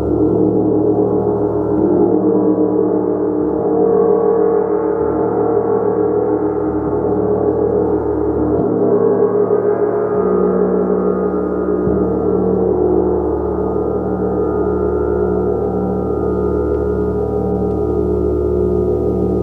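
A gong played continuously, its many overlapping tones held in a steady wash, swelling slightly a few times.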